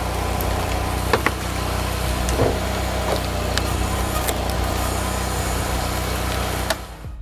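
An engine running steadily, with a few sharp knocks and clicks over it; the sound cuts off suddenly near the end.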